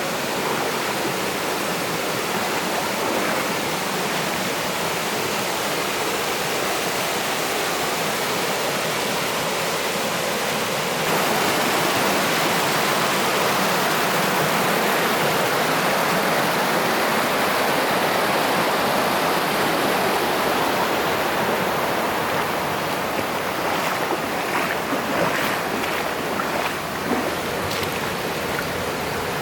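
Mountain stream rushing over rocks, a steady flow of water that jumps louder about eleven seconds in. Near the end, short splashes and knocks break in over it.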